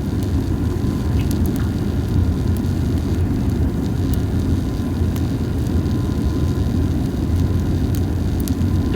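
Small fire of dried hinoki cypress cones burning with a steady low rumble and sparse, light crackles and pops. The crackling is only slight because the cones did not burn as well as hoped.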